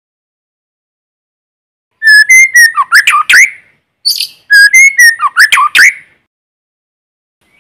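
White-rumped shama singing two phrases of rich, fast whistled notes with sharp pitch glides, the first about two seconds in and the second about four seconds in. This is its loud challenge song, the kind used as a decoy to provoke rival birds.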